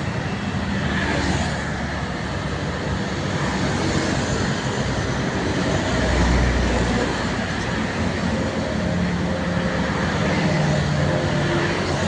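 Road traffic, with trucks passing steadily and engine and tyre noise throughout. A heavy low rumble comes about halfway through, then an engine's hum near the end.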